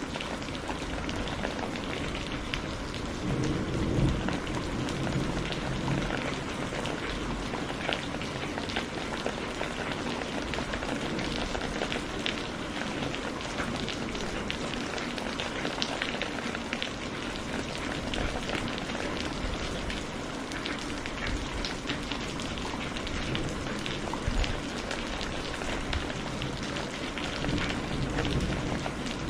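Steady rain falling, a dense hiss of many fine drop patters. Low thunder rumbles swell about four seconds in and again near the end.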